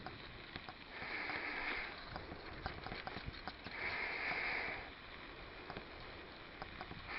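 A cyclist breathing hard, with two long exhalations about three seconds apart, over the tyre noise and small clicks and rattles of a mountain bike riding a bumpy trail.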